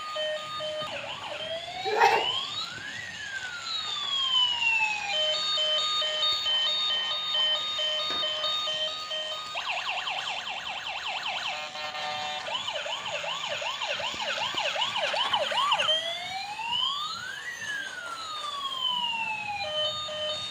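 Electronic ambulance siren cycling through its patterns: a repeating beeping tone, a slow rising-and-falling wail, then a fast warbling yelp in the middle before the wail returns.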